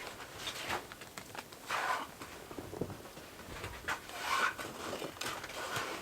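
Thread being pulled through material while hand-stitching with a Speedy Stitcher sewing awl: two longer swishes, about two seconds in and again past the four-second mark, among small clicks and rustles.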